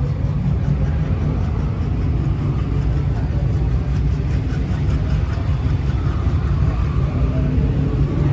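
Car engines idling in line, a steady deep rumble.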